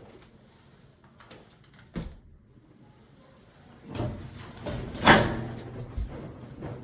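Handling noises: a sharp knock about two seconds in, then rustling that builds to a loud brief rush of noise about five seconds in, and a low thud about a second later.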